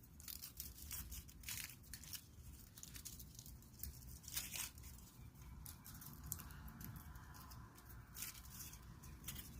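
Faint, irregular rustling and crackling with sharp clicks, over a low steady rumble.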